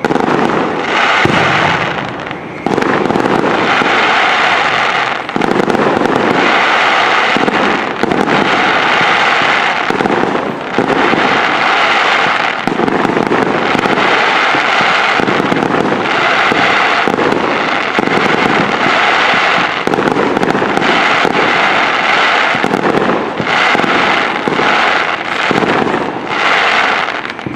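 Fireworks show finale: many shells bursting in quick, overlapping succession, merging into an almost continuous loud barrage with only brief dips.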